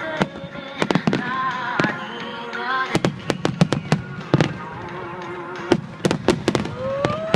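Aerial fireworks shells bursting in a rapid, irregular string of sharp bangs, over music with singing played to accompany the display.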